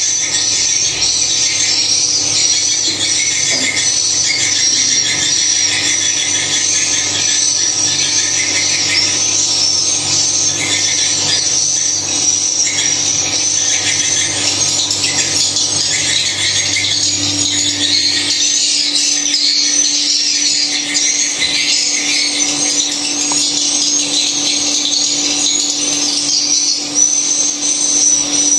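Dense, continuous high-pitched twittering of swiftlets inside a swiftlet nesting house. A low background hum stops about two-thirds of the way through.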